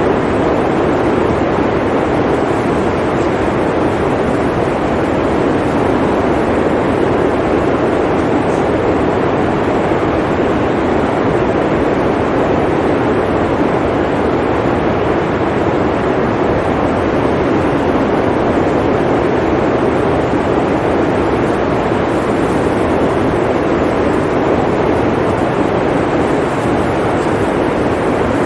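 Blizzard wind blowing steadily, an even, unbroken rush of noise that is strongest in the low-middle range and never rises or falls.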